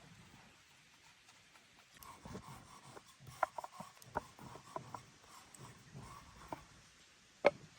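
Light rubbing and scraping with small clicks and taps of hands and utensils at work on food preparation, starting about two seconds in, with one sharper knock near the end.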